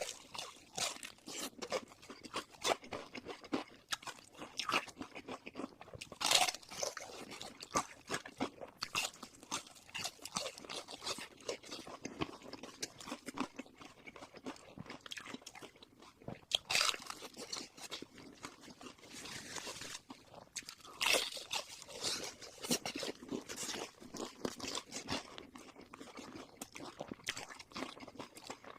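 A person chewing and crunching food close to the microphone: a continuous run of short crunches and chewing sounds, with louder crunches about six seconds in and again around seventeen and twenty-one seconds.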